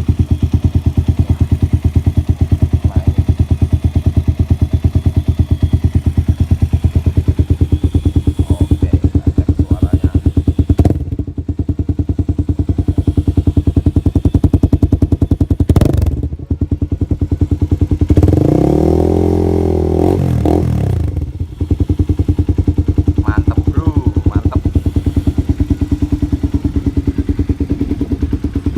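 Honda CB150R's single-cylinder engine idling through an aftermarket Akrapovic-style exhaust, a loud, even pulsing beat. About eighteen seconds in the throttle is opened once and the pitch rises and falls back to idle.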